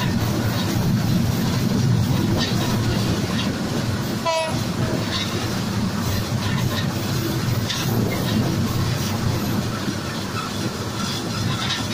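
Passenger train running at speed, heard from beside the moving carriage: a steady rumble of steel wheels on the rails, with wheels clicking over rail joints every second or two.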